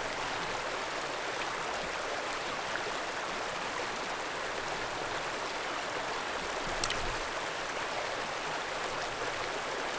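Mountain trout stream flowing steadily, its water running as an even hiss, with one short click about seven seconds in.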